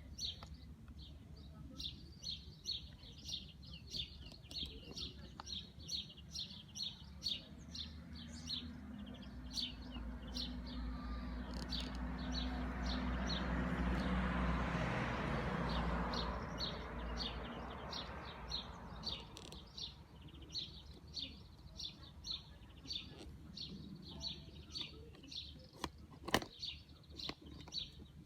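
A small bird chirping over and over, two or three high chirps a second, throughout. In the middle a road vehicle passes, its noise swelling for several seconds and then fading, and there is one sharp click near the end.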